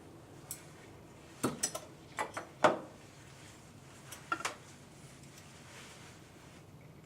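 Sharp metal taps and clinks, about eight in a few short groups with the loudest one midway, from hand tools and distributor parts as the roll pin is driven out of the distributor shaft.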